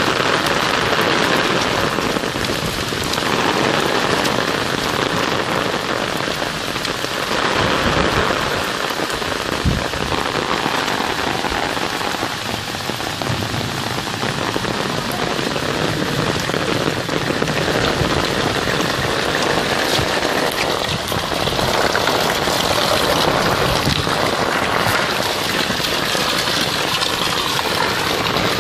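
Heavy downpour of rain, a loud, steady hiss of drops falling on wet ground and puddles.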